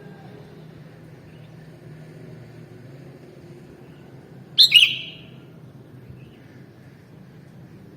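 A sooty-headed bulbul gives one short, loud call about halfway through, over a faint steady low hum.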